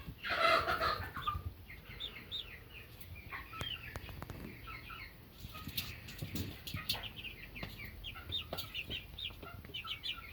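A flock of young chicks peeping continuously, many short, quick peeps overlapping. A brief, louder rustling sound comes about half a second in.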